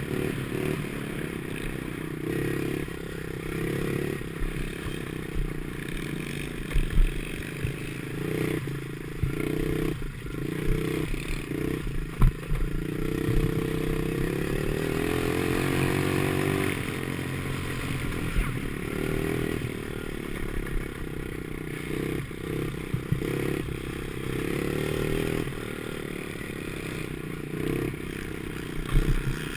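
Ten10 50cc pit bike engine revving up and down as it is ridden around a motocross track, with clattering and scraping from the bike and a few sharp knocks over bumps.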